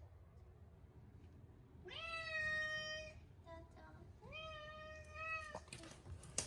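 Munchkin cat meowing in protest at being bathed: two long, drawn-out meows, each rising at the start and then held steady, with a brief small call between them.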